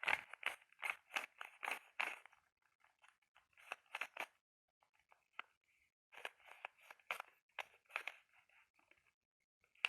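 Close-miked tapping and scratching on a hard object, in quick runs of sharp taps mixed with scratching, with short pauses between runs.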